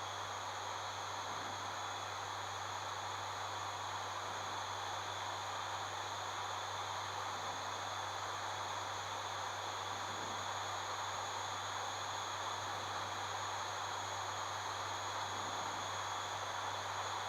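Steady cockpit noise of an ATR 72-600 turboprop in flight: the low drone of its two Pratt & Whitney PW127M engines and propellers under an even rushing hiss of air, with thin high tones held throughout.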